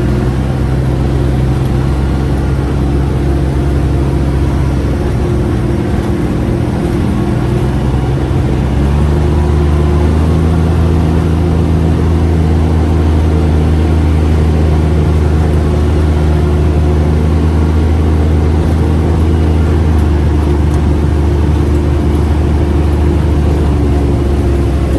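UTV engine running steadily under way. About nine seconds in its note shifts and it grows slightly louder.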